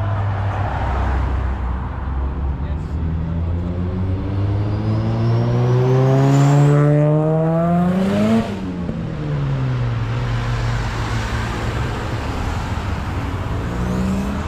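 A car engine accelerating past, its pitch climbing steadily for several seconds, then dropping sharply about eight seconds in as the car goes by and eases off. Another engine starts rising near the end.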